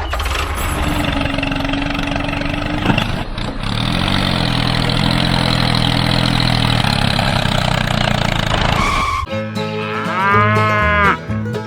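Cows mooing over a steady low engine hum; both stop abruptly about nine seconds in, where plucked-string music takes over.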